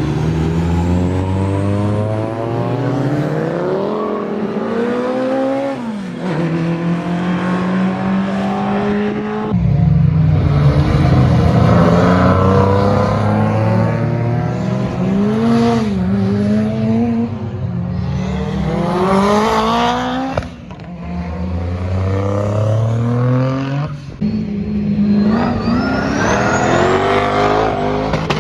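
Car engines accelerating hard, each climbing in pitch and dropping back sharply at the gear changes, several times over.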